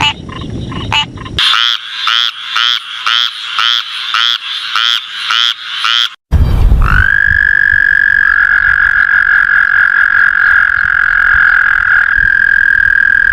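Frog calls from two different recordings. First comes a run of short calls repeating about three times a second. After a brief break in the middle, a single long, steady, high-pitched call is held for several seconds.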